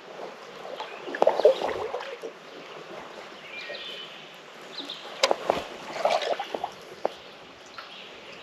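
Kayak paddle strokes dipping and splashing in lake water, in two bouts, one about a second in and another around five to six seconds in, with sharp knocks among them.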